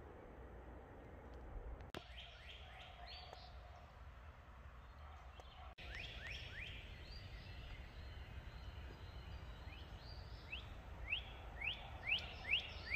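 A songbird singing phrases of quick, repeated slurred whistles, several notes to a phrase, loudest near the end, over a faint steady low background rumble.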